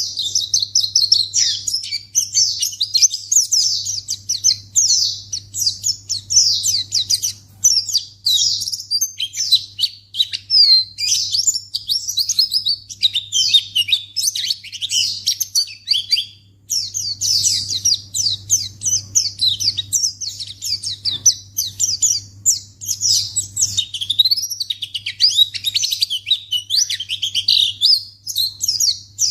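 White-eye (pleci) singing: a fast, continuous stream of high chirps and twittering warbles, with a short pause about halfway through.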